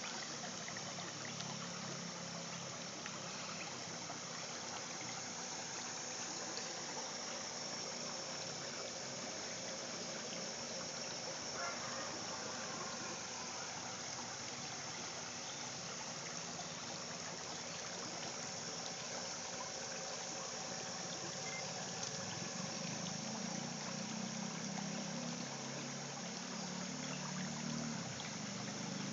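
A river running: a steady rush of flowing water. A low rumble grows beneath it near the end.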